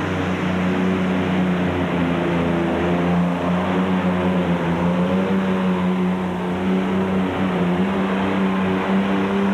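Fuel-injected twelve-cylinder modified pulling-tractor engine running hard and steady under full load as it drags the sled down the track.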